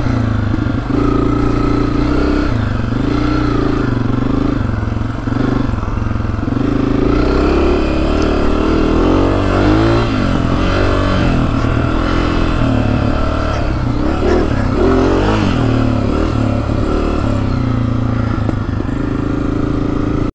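Honda CRF250F dirt bike's single-cylinder four-stroke engine running under constantly changing throttle while being ridden, its pitch rising and falling again and again.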